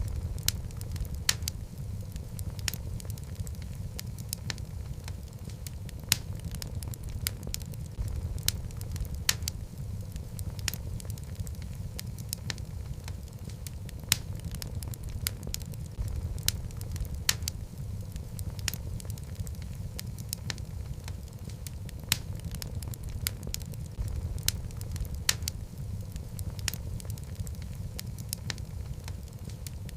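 Wood fire of burning logs crackling in a fireplace: a steady low rumble of flames with irregular sharp pops and crackles, several a second, a few louder snaps among them.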